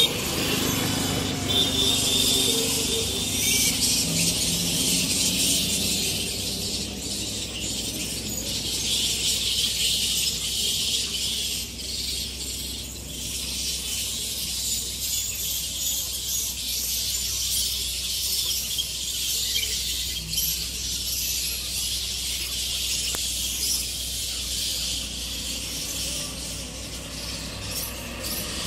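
A colony of flying foxes squealing and chattering at the roost: a dense, continuous chorus of high-pitched squeaks and screeches over a low steady hum.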